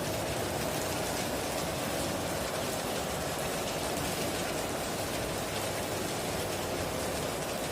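Steady heavy rain falling, an even hiss with no thunderclaps or other distinct events.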